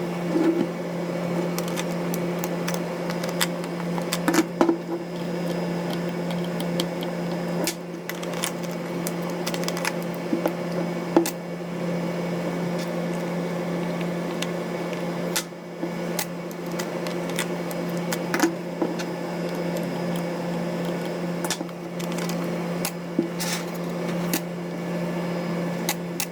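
Steady electrical hum throughout, with small sharp clicks and taps now and then, from handling during the repair of a camera.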